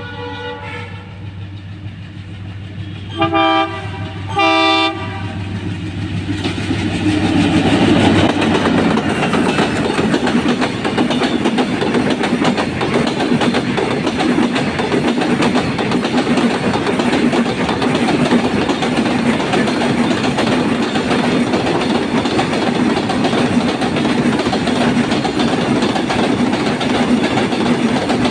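Freight train locomotive sounding two short horn blasts, the first about three seconds in and the second a second later. The long goods train then passes close, with a steady loud noise of wagon wheels rolling and clattering over the rails.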